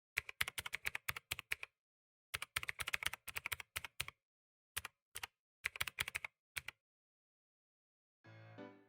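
Computer keyboard typing: quick runs of key clicks in several spurts with short pauses between them. The typing stops, and music begins just before the end.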